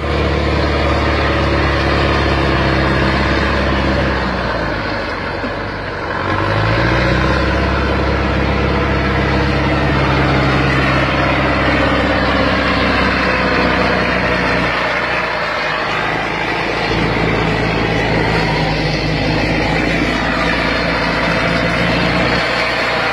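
Heavy diesel engine running hard under load. It eases off about four to six seconds in, revs back up, then runs steadily.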